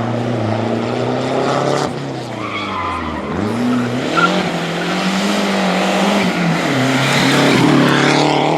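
Rally car engine at high revs: the revs fall sharply about two seconds in, climb again and hold high, then drop once more near the end, with a hiss of tyre noise on the road surface.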